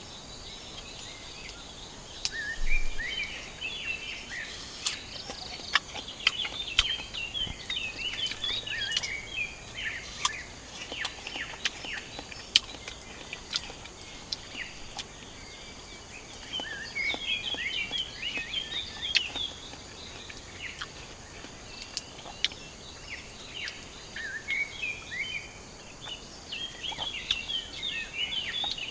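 Birds chirping in repeated bouts of quick, falling chirps over a steady outdoor hiss, with scattered sharp ticks in between.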